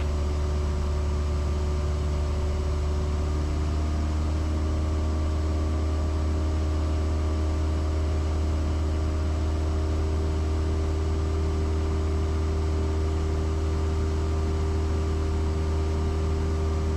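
Steady drone of a Cessna 172S's four-cylinder Lycoming engine and propeller in level cruise, heard from the cockpit, unchanging throughout.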